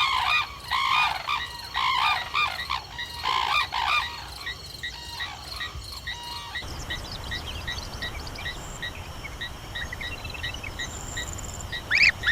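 Frogs croaking in a chorus of loud, rhythmic calls. About seven seconds in the sound changes abruptly to a steady run of short chirps, two or three a second, and a loud sweeping call comes right at the end.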